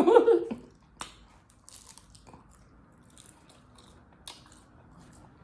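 Brief vocal sound at the start, then faint chewing with a few soft crunches as a taco with a crisp shell is eaten.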